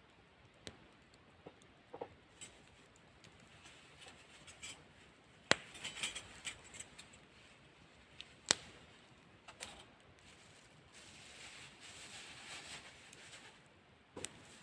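Dishes and utensils being handled, with scattered clinks and knocks and soft rustling between; two sharp clacks stand out, about five and a half and eight and a half seconds in.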